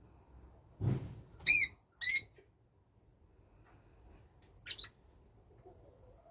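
Pet birds squawking during a squabble: two sharp, harsh calls about half a second apart, then a fainter one a few seconds later. A soft thump just before the first call.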